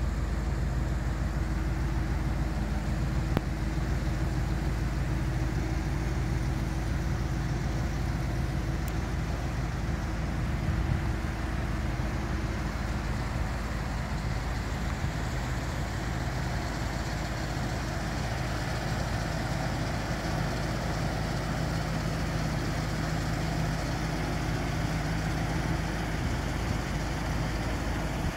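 1957 Buick Roadmaster's 364 cu in Nailhead V8 idling steadily.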